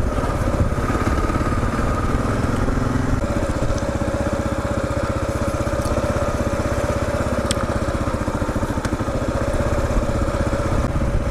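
Kawasaki KLR 650's single-cylinder engine running steadily while the motorcycle is ridden, its note changing about three seconds in.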